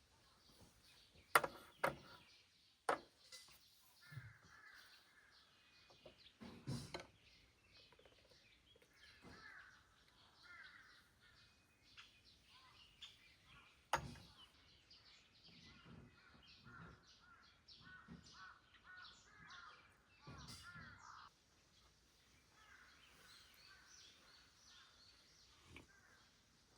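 Crows cawing faintly now and then, with a few sharp clicks in the first few seconds and one about halfway through.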